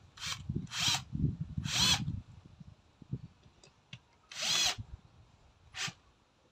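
Power drill run in about five short bursts, some speeding up as it spins, over low wind rumble on the microphone.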